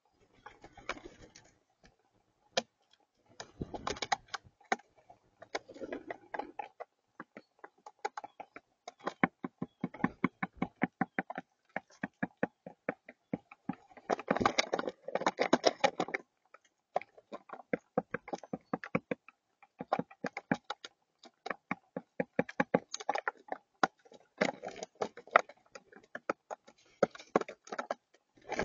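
Rapid, irregular sharp taps on a hard surface, coming in dense clusters with short gaps between them.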